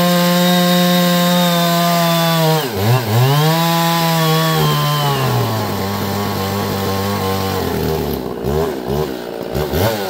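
Two-stroke chainsaw running at full throttle. The revs dip and recover about three seconds in, settle lower from about five seconds, then drop off near eight seconds with a few quick blips of the throttle.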